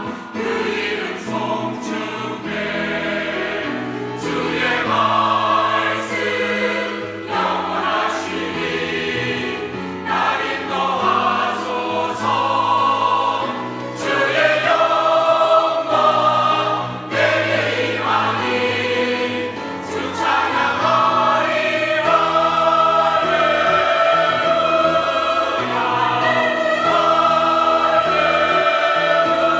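Church choir singing a sacred anthem in full harmony, the voices moving through phrases and then holding long sustained notes in the last third.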